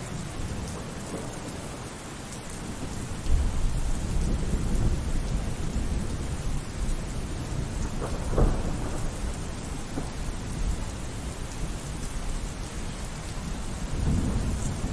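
Steady rain with rolling thunder: a low rumble swells about three seconds in, a sharper thunderclap comes about halfway through, and another rumble rises near the end.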